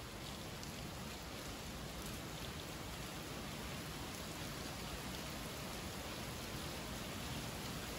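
Summer rain falling steadily: an even hiss with scattered ticks of individual drops.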